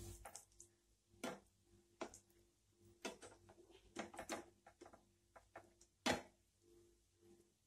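Scattered light clicks and taps of kitchen utensils, roughly one a second, the sharpest about six seconds in, over a faint steady hum.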